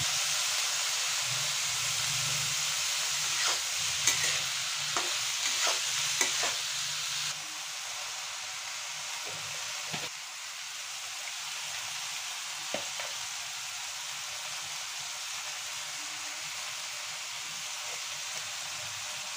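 Shrimp and onions sizzling in oil in a steel kadai, with a spatula scraping and clicking against the pan. About seven seconds in the stirring stops and the sizzle drops a little, then runs on steadily.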